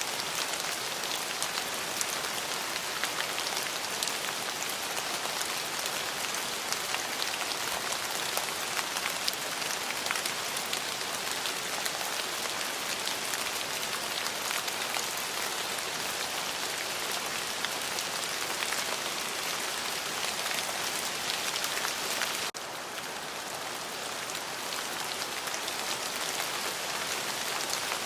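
Steady rain falling, an even hiss with many separate drops ticking through it. No thunder. About two-thirds of the way through the level drops suddenly, then slowly builds back.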